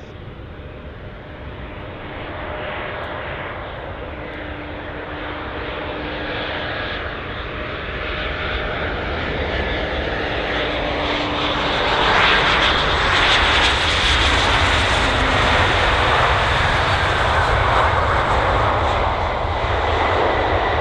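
Jet airliner coming in to land, its engine noise building steadily for about twelve seconds and then holding loud, with a faint whine over the rush.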